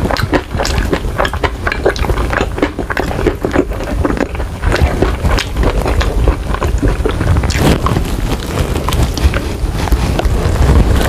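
Close-miked chewing and lip-smacking of sauce-glazed chicken wings and fried rice: a rapid, irregular run of clicks and smacks.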